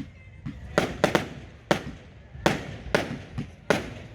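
Fireworks going off in a display: a run of sharp bangs at uneven intervals, about eight in four seconds, each trailing off briefly.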